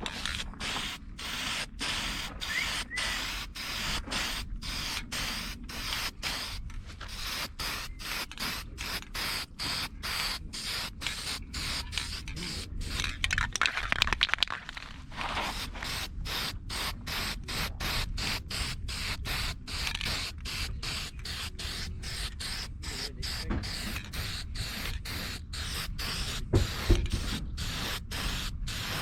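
Aerosol spray-paint can hissing in short bursts, about two or three a second, as black paint is sprayed onto a truck's emblems.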